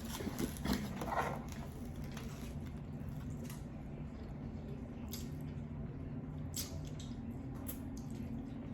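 Close-miked chewing of lo mein noodles: wet mouth clicks and smacks, busiest about a second in, over a steady low hum.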